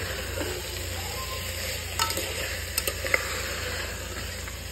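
Chana dal, potatoes and spice masala sizzling as they fry in oil in a pressure cooker, stirred with a wooden spatula. A few sharp clicks of the spatula against the pot come about two to three seconds in.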